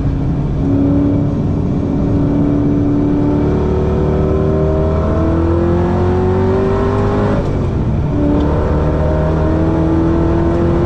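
Ford GT's engine under hard acceleration on track, heard from the car. The revs climb steadily through a long pull, drop at an upshift about seven and a half seconds in, then climb again in the next gear.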